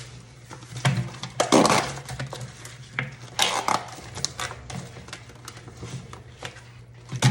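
Kitchen clatter: a string of irregular clicks and knocks as utensils and dishes are handled on a counter, over a low steady hum.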